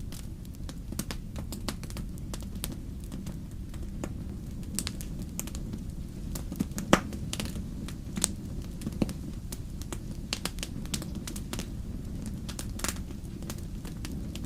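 Wood fire burning in a fireplace: a steady low rumble of flame with irregular sharp crackles and pops, the loudest snap about seven seconds in.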